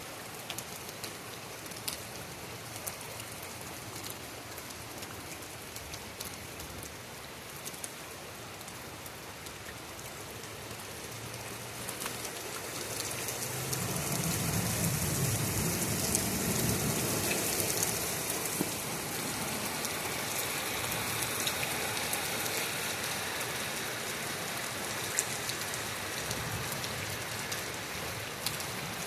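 Heavy rain falling steadily, with sharp individual drops tapping close by. About halfway through a low rumble swells up and slowly fades as the rain grows louder.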